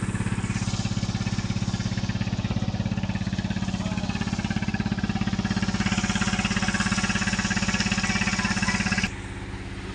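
Tractor diesel engine running steadily with a rapid, even beat. It grows louder and harsher about six seconds in, then drops suddenly in level near the end.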